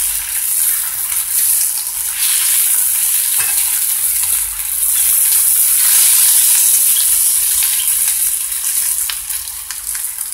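Diced potatoes and onions sizzling in hot sunflower oil in a large frying pan over high heat, with a spatula stirring and turning them through the pan.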